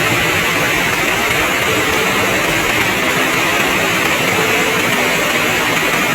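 Heavy rain falling steadily, a dense, even hiss with no pauses.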